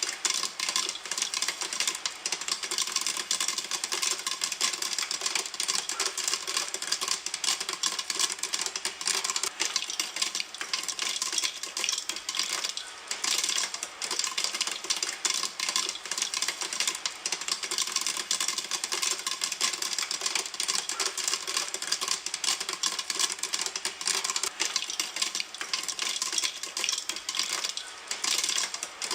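Popcorn kernels popping in a pan, a dense, continuous crackle of rapid pops.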